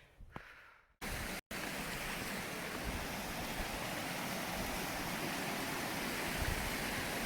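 Wind rushing over the microphone: a steady, even noise that starts suddenly about a second in and grows gustier toward the end.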